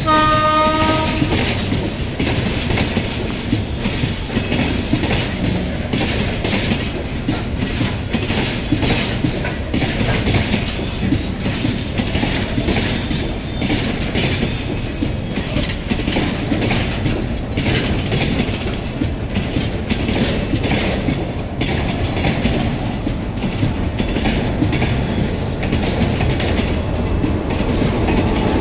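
A train horn sounds briefly at the start, then loaded freight wagons roll past steadily, their wheels clacking over the rail joints. The rumble grows slightly louder near the end as a WAP-7 electric locomotive approaches on the adjacent track.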